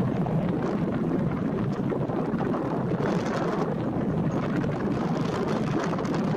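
Wind buffeting the microphone over the steady rumble of a landing airliner, with a brighter hiss coming in about halfway through.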